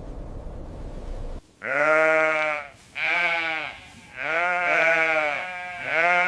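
Sheep bleating: four long bleats in a row, each about a second. They come after a low wind rumble that cuts off about a second and a half in.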